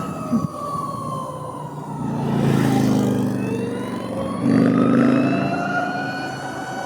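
Harley-Davidson LiveWire electric motorcycle's motor and drive whine, a siren-like tone that falls as the bike eases off and rises again as it picks up speed, with two rushes of wind on the microphone.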